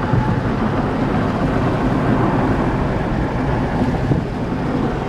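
Steady low rumble of a car driving, with road and engine noise heard from inside the cabin and wind on the microphone.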